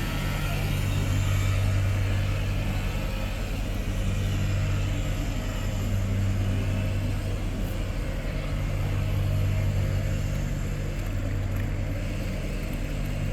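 A motor running steadily with a low hum that swells and eases slightly.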